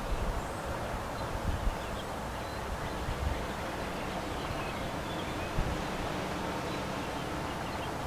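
Steady wind noise with a few faint, short, high bird chirps scattered through it.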